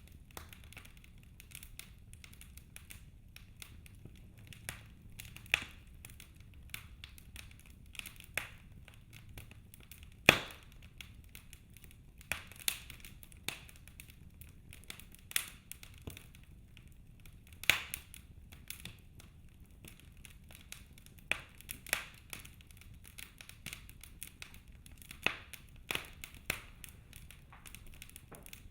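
Wood fire burning in a fireplace: irregular crackles and sharp pops over a low, steady rumble. The loudest pop comes about ten seconds in.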